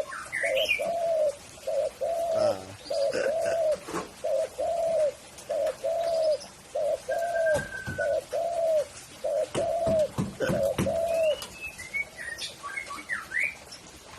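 Spotted dove (tekukur) cooing: a run of about eleven evenly spaced, low arched coo notes, roughly one a second, which stops near the end. Small birds chirp higher in the background, most near the end.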